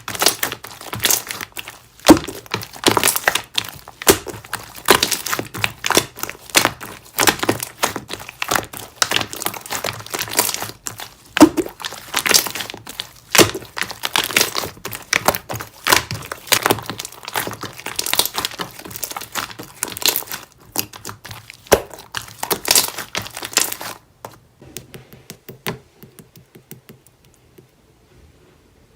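Slime being pressed and squished by hand, a dense run of crackling, popping clicks that stops about 24 seconds in.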